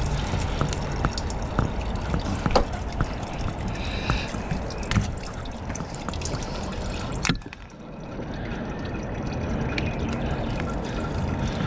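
Gasoline trickling and dripping from the mower's open fuel line while the fuel filter is changed, with a few sharp clicks of the hose and filter being handled, one louder click about seven seconds in.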